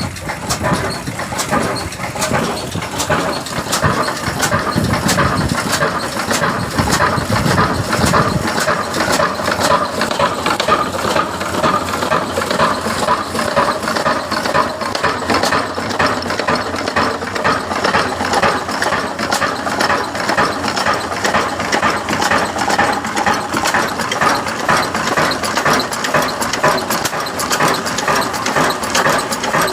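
20 hp Ruston Hornsby slow-speed diesel engine running with an even, regular beat. The low sound is heavier in the first several seconds, then it settles to a steady run.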